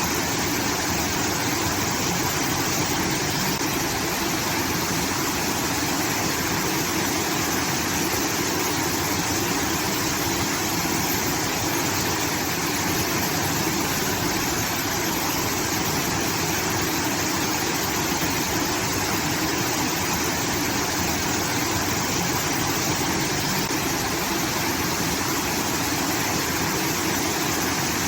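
Water from a rice-field irrigation channel pouring and splashing like a small waterfall: a steady, unbroken rushing.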